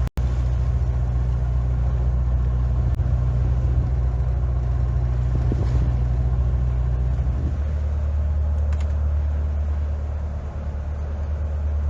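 A low, steady engine rumble with a constant hum. The hum drops to a lower pitch about seven and a half seconds in.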